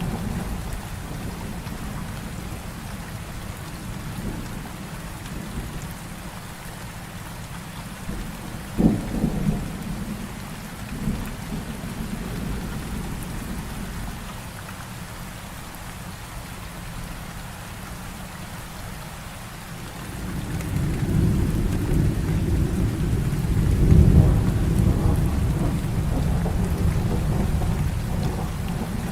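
Heavy rain falling steadily, with thunder: a sharp thunderclap about a third of the way in, and a long low rumble of thunder that swells and rolls through the last third.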